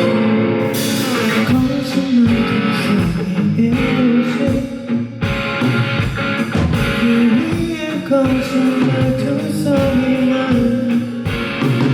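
Rock band playing live: electric guitar-driven rock with a sung vocal line.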